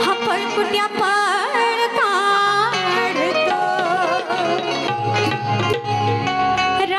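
Live Shakti-Tura folk music from Konkan: a melodic lead with gliding, ornamented notes over regular drum strokes. Past the midpoint the melody settles into long held notes.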